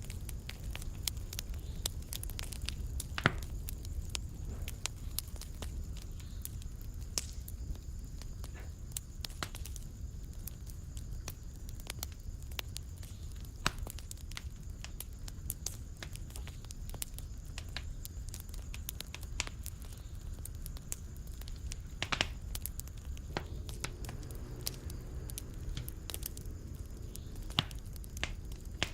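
Fireplace fire crackling: frequent sharp snaps and pops over a steady low rumble, with a few louder pops, the loudest about three seconds in.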